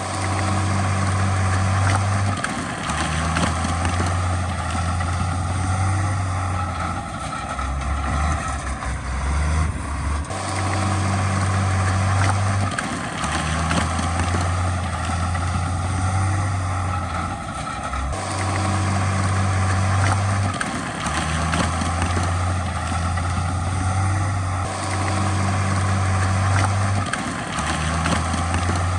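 Heavy earthmoving equipment's diesel engine running steadily, its low hum shifting in level every few seconds.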